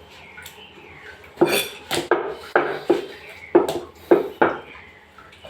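Whole chicken being cut up in a butcher's shop: a run of sharp knocks and metallic clatters, about eight in three seconds, starting after a quiet first second or so.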